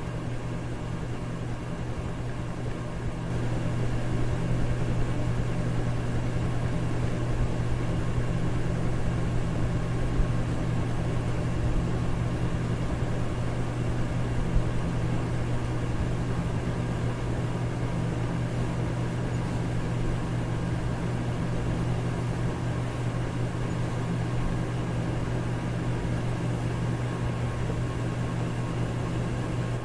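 Electric fan running steadily: a constant low motor hum under an even rush of air, a little louder from about three seconds in.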